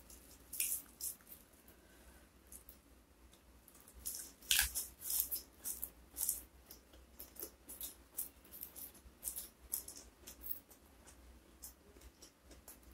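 Close-miked eating of raw leafy greens (lalapan): leaves plucked from their stems, then crisp crackling clicks of chewing and mouth sounds, loudest about four to five seconds in.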